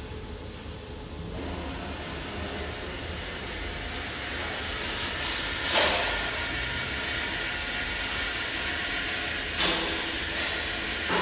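Steady machine-like noise and hiss. A louder rushing burst comes about five to six seconds in, and there are short sharp knocks near the end.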